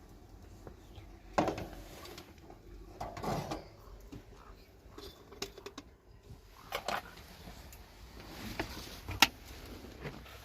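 Scattered knocks and light clatter of objects being handled, a few thuds spread through, with one sharp click near the end the loudest.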